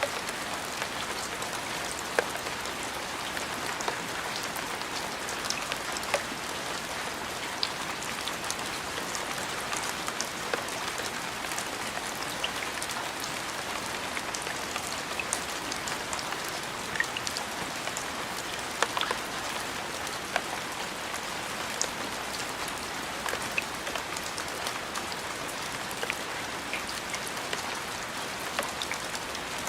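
Steady rainfall, an even hiss with scattered sharp drip impacts standing out.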